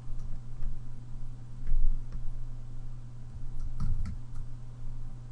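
Scattered light clicks and taps at a digital drawing workstation, a cluster of them about four seconds in, over a steady low hum.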